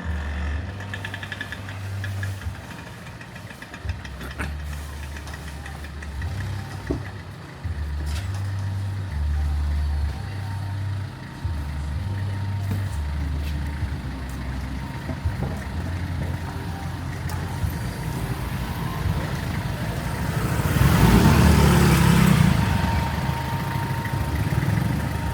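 City street traffic: a steady low rumble of engines, with a vehicle passing close and loud about twenty seconds in, its sound swelling and then fading.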